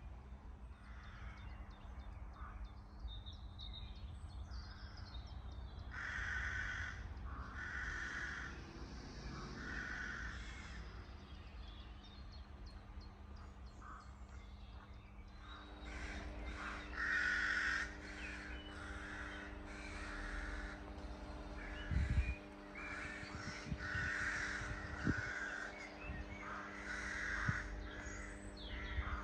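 A crow cawing over and over in two spells, each call lasting about half a second to a second. A steady low hum comes in about halfway through and stays under the calls.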